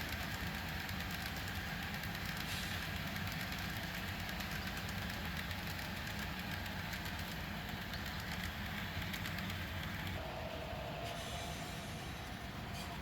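Model GE ES44 diesel locomotive running with its Blunami sound decoder playing the diesel engine sound, a steady low drone, as the model hauls a freight train along the track. A higher steady tone joins about ten seconds in.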